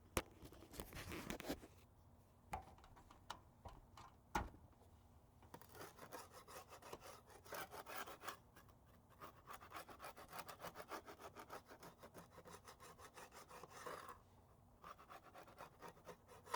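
Faint, rapid back-and-forth rubbing strokes of a hand tool against the siding, about four or five a second. The strokes run steadily from about five seconds in to about fourteen seconds, after a few scattered strokes and two sharp knocks.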